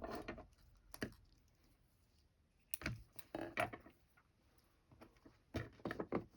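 Small clicks and rustles of sewing supplies being handled, coming in short clusters at the start, about a second in, around three seconds in and near the end.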